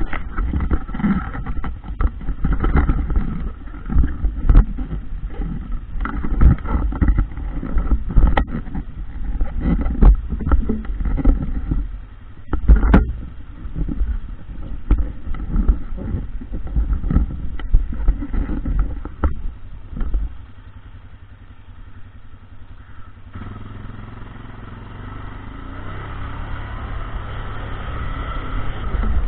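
ATV (quad) riding a rough trail: engine running amid frequent sharp knocks and jolts. The engine eases off about two-thirds of the way through, then a steadier engine drone builds toward the end.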